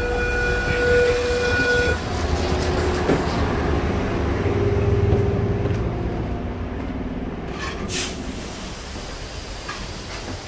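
Sydney Trains Tangara double-deck electric train running, with a steady low rumble. A high steady tone cuts off about two seconds in, a fainter whine follows, and there is a sharp click about eight seconds in.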